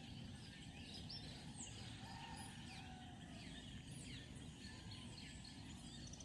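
Faint birdsong: many short chirps and whistles from several birds over a steady low background rumble.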